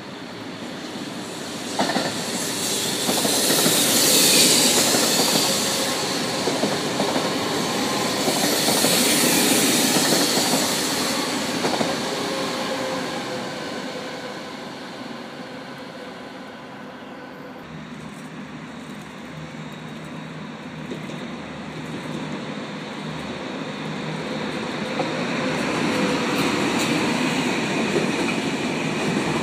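Double-deck TER regional electric train passing on the tracks, its wheels squealing and clacking, loudest twice within the first dozen seconds. Later a TGV Duplex double-deck high-speed train rumbles past, growing louder near the end.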